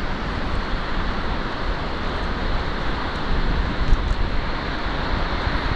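Steady rushing roar of Magod Waterfall, a large river waterfall, heard as an even wash of noise, with one brief click about four seconds in.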